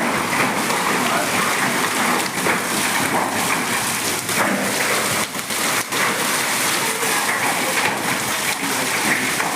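Heavy rain of a hailstorm falling steadily on surfaces, with scattered sharper hits through the downpour.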